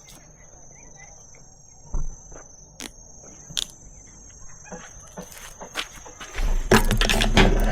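Insects trilling steadily at a high pitch, with scattered light clicks and knocks. About six seconds in, a louder noisy stretch with a low rumble begins and runs on for about two seconds.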